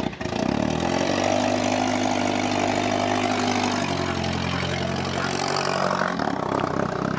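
A small car's engine running steadily as the car drives across a grass lawn; its note shifts to a different pitch about four seconds in.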